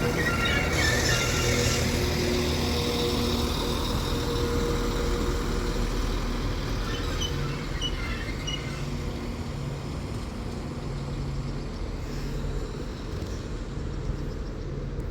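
Doubled-up Northern class 195 diesel multiple unit arriving, its underfloor diesel engines running steadily and slowly growing quieter as it rolls in. There is a short hiss about a second in and a few faint high squeaks midway.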